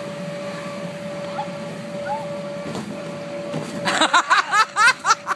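A steady low hum with a faint steady tone, then loud, excited voices breaking in about four seconds in.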